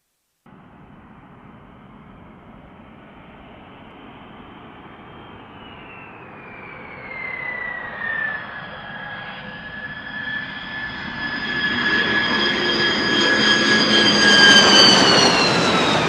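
Jet aircraft engine, its noise and high whine growing steadily louder, loudest near the end, where the whine falls in pitch.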